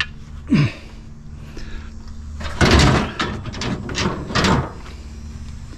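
Metal scrap clanking as it is handled and loaded. A short falling squeak of metal comes just after the start, then a loud clattering crash about two and a half seconds in, followed by several lighter knocks.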